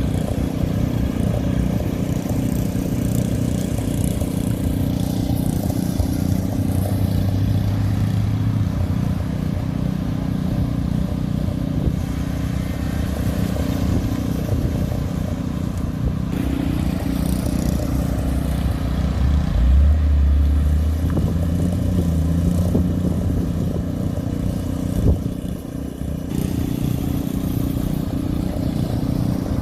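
Hot rod and classic car engines running as cars drive past one after another, a steady low rumble with one engine's hum louder about two-thirds of the way through.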